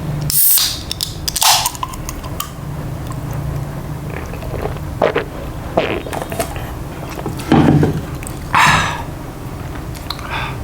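Close-miked ASMR food handling and eating sounds: several short crisp rustling bursts and clicks over a steady low hum.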